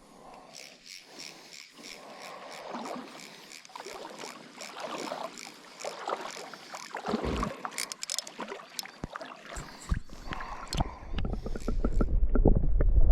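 Canoe being paddled on a river: water splashing and running off the paddle, with scattered light knocks. A low rumble gets louder over the last few seconds.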